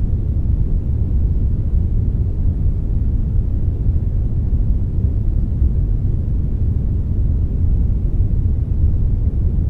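Steady synthetic brownish noise, a blend of brown and white noise: an even, deep hiss weighted heavily toward the low end, with no changes or events.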